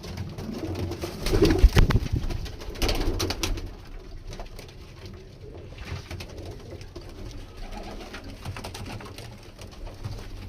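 Domestic pigeons cooing in a small enclosure, with scattered sharp knocks and rustles. The knocks are loudest about one and a half to two seconds in.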